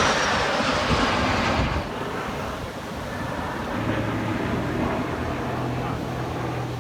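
An aircraft passing in a loud rushing fly-by with a falling high whine, fading away about two seconds in. A steady low hum follows.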